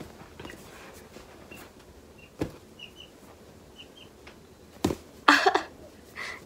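Quiet handling of soft squishy toys: light rustles and two sharp taps, then a short loud vocal sound, a breath or brief voice, about five seconds in.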